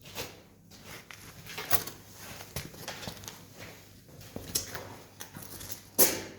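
Wood campfire crackling, with irregular snaps and pops and one loud sharp pop near the end.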